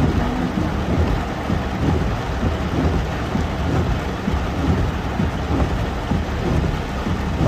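Heavy rain falling on a car from inside the moving car, a steady hiss over a constant low rumble.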